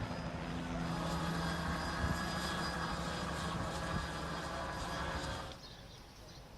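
A steady engine drone with a low hum under a wash of outdoor noise, cutting off abruptly about five and a half seconds in.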